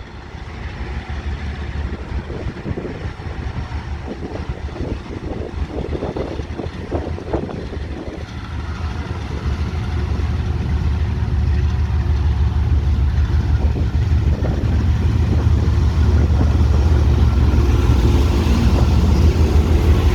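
Diesel rail vehicle engine running with a steady low rumble, growing louder and heavier about halfway through.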